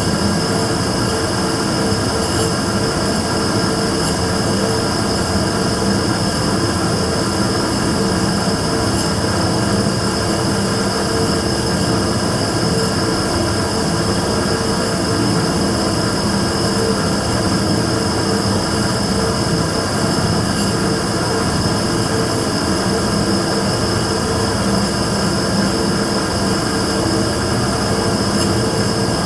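Immersion tube burner running steadily: a loud, even, continuous drone with a steady mid-pitched hum and a high, thin whine above it. The title calls this an abnormal noise from the burner.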